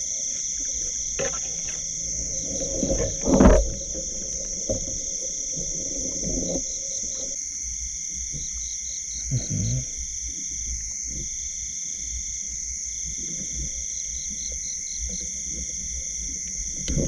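Steady high-pitched insect chorus, with a second pulsing trill that starts and stops every second or two. Low close rustling and knocking underneath, with one loud knock about three and a half seconds in.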